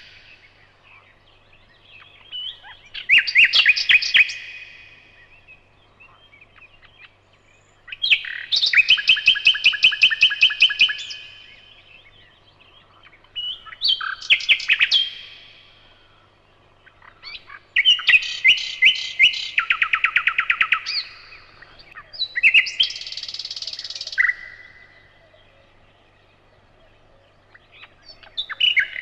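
Nightingale singing: loud phrases of rapid, evenly repeated notes, each phrase lasting one to three seconds, with pauses of a few seconds between them, six phrases in all.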